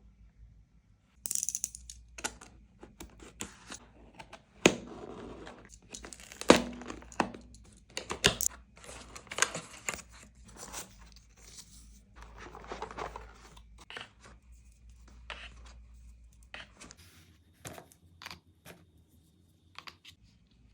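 Packaging of a highlighter set being torn open and crinkled by hand, with irregular sharp clicks and knocks.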